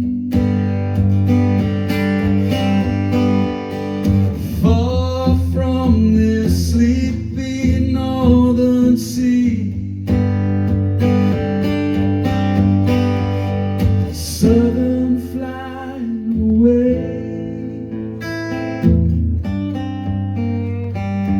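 Acoustic guitar playing an instrumental break in a live song, with notes that slide and bend in pitch.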